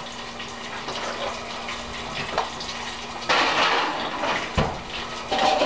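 Vegan chicken tenders frying in oil in a pan: a steady sizzle that grows louder for about a second past the middle, with a dull thump just after.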